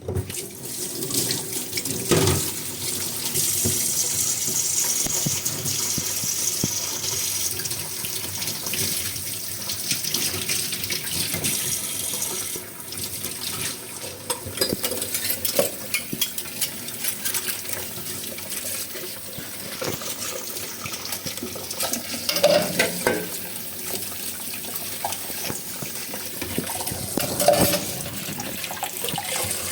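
Tap water running steadily into a sink while dishes are washed, with scattered clinks and knocks of dishes, a few louder ones about two seconds in and near the end.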